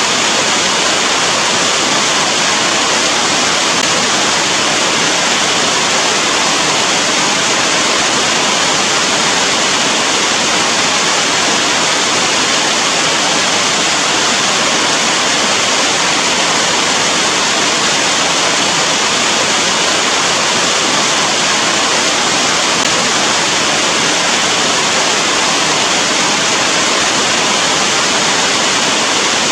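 Steady rain falling, a dense even hiss with no single drops, gusts or thunder standing out.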